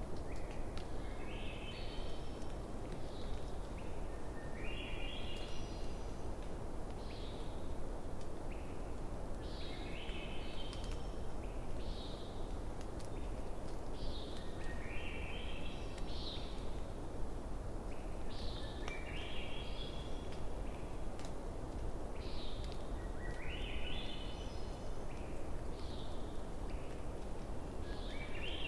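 A songbird repeating the same short phrase every four to five seconds, a quick run of notes stepping upward in pitch, over a steady low outdoor hiss with a few faint campfire crackles.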